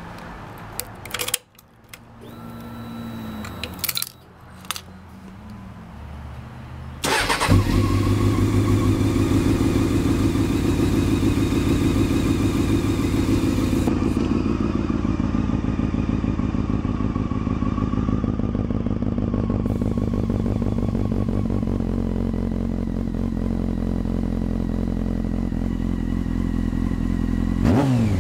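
Honda CBR 600 F4i's inline-four engine with a Two Brothers Racing carbon-fibre exhaust: a few clicks and a brief whir, then the engine is started about seven seconds in and settles into a steady, deep idle, with a quick rev near the end. The sound is muffled and loud in the garage.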